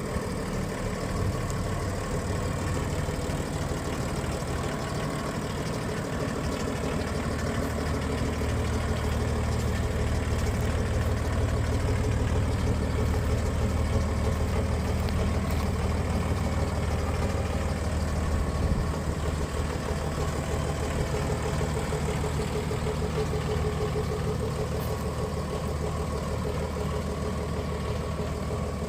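An engine idling steadily, a low rumble that grows heavier from about eight seconds in and eases back after about nineteen seconds.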